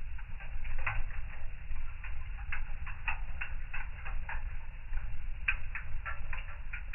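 Fire crackling in a fireplace: irregular pops and snaps, several a second and unevenly spaced, over a steady low rumble.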